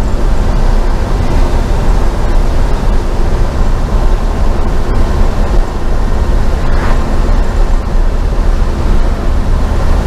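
LS V8-swapped Chevy C10 pickup driving at a steady pace: a continuous low drone of engine and road noise.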